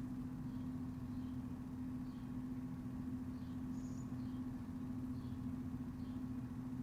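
Steady low hum of a running machine, with faint short high chirps repeating about once a second and one slightly brighter chirp about four seconds in.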